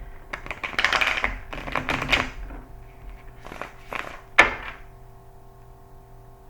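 Tarot cards being shuffled by hand: a dense run of rapid clicking card edges for about two seconds, then three separate sharp slaps of cards, the loudest about four and a half seconds in.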